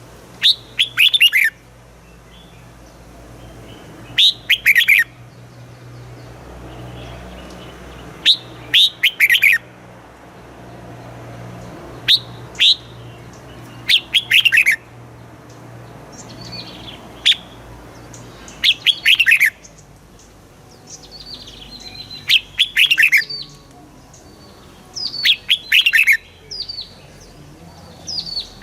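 Red-whiskered bulbul singing: short phrases of a few quick, falling whistled notes, repeated every two to four seconds.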